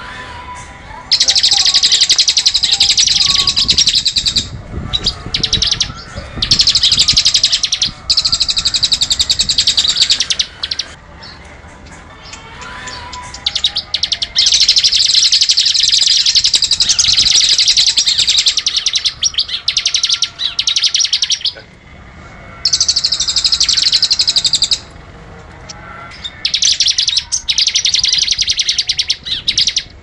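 Crested jay (cililin) calling in long, loud, high-pitched rattles, about six bursts of two to seven seconds each with short pauses between them.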